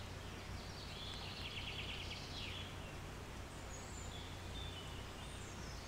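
Faint steady background hum with a distant bird trilling briefly about a second in, then a few faint high chirps. The sewing machine is not running.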